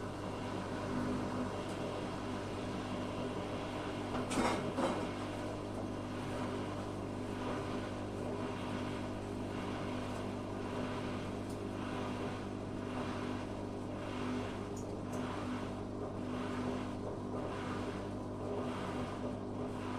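Zanussi FA623 washing machine running mid-cycle: a steady motor hum with a soft swish repeating about once a second as the drum turns, and a brief rattle about four seconds in.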